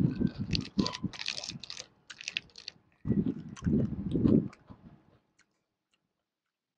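Close-miked crunching and chewing of crispy bánh xèo (Vietnamese rice-flour pancake): dense sharp crackles for about two seconds, then softer, duller chewing that stops about five seconds in.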